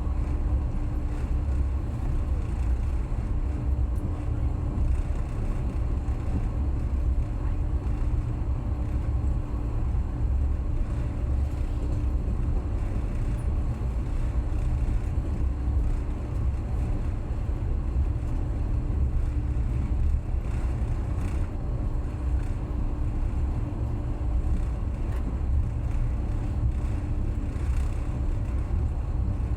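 Passenger train running steadily along the line: a constant low rumble of wheels on rails with a faint steady hum over it.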